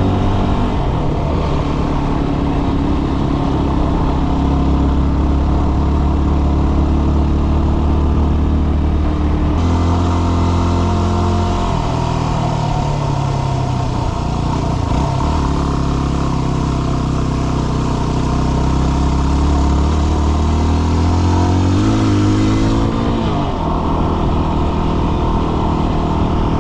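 Dual-sport motorcycle engine running under way, its pitch rising and falling with throttle and gear changes, with a clear drop about ten seconds in and another climb and drop near the end.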